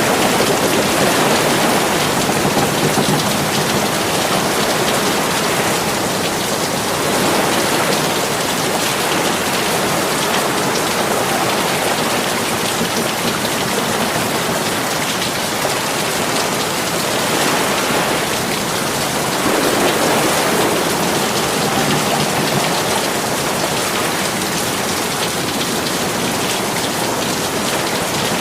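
Heavy monsoon rain falling steadily: a dense, even hiss of drops on surfaces that swells a little now and then.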